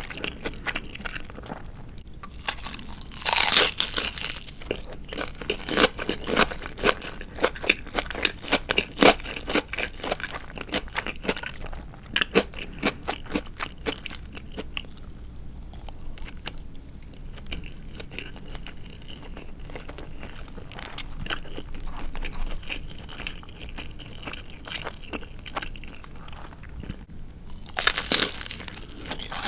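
Close-miked biting and chewing of crispy deep-fried marinated chicken (tatsuta-age). A loud crunch of the fried coating a few seconds in is followed by crackly chewing that grows quieter. Near the end comes another loud crunchy bite.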